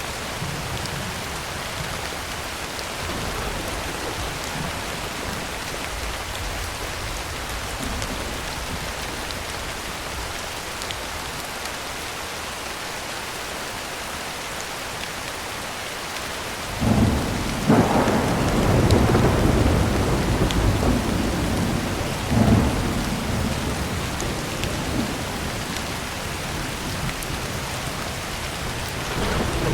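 Heavy rain on a tin roof, a steady hiss. A little past halfway, thunder breaks in suddenly and rumbles for several seconds, with a second loud peak about five seconds later, then slowly dies away under the rain.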